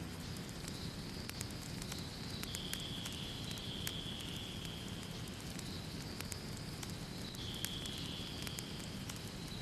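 Wood fire crackling in a fireplace: frequent sharp pops and snaps over a steady low rumble of flames, with a steady high-pitched tone in the background.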